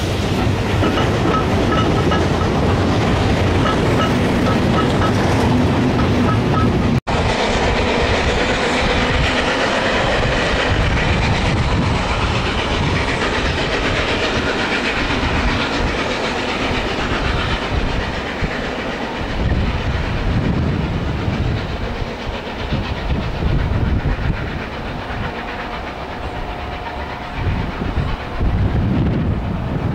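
Train coaches passing close, their wheels clattering over the rail. A sudden cut breaks the sound about seven seconds in. After it, a double-headed steam train works away with a Class 37 diesel locomotive running at the rear, and the train slowly recedes.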